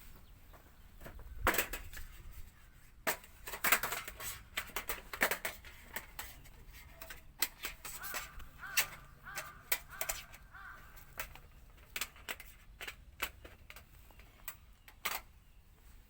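Irregular metallic clicks, clanks and knocks from the parts of a Bundok Lotus folding stainless-steel fire pit being handled and fitted together. A few knocks ring briefly.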